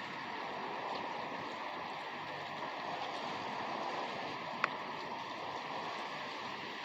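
Steady rain, an even hiss of falling drops with a few faint ticks of individual drops, and one sharper tap a little past halfway.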